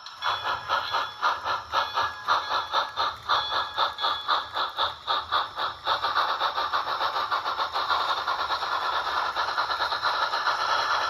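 Steam-exhaust chuffing from a DCC sound decoder, played through a small speaker inside an HO-scale Rivarossi steam locomotive. It starts suddenly as an even beat of about three to four chuffs a second, then quickens into a near-continuous rush about six seconds in.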